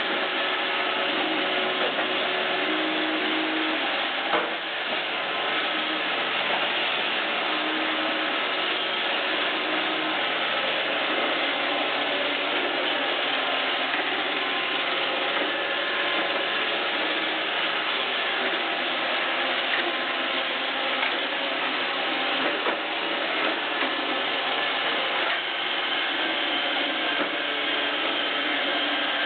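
iRobot Roomba 564 Pet robot vacuum running: a steady mechanical whir from its vacuum motor and brushes, with a single sharp knock about four seconds in.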